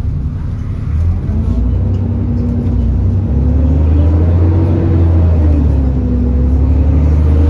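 Alexander Dennis Enviro400 bus's diesel engine pulling away and accelerating, its low rumble getting louder and its pitch rising from about a second in, easing briefly, then rising again near the end.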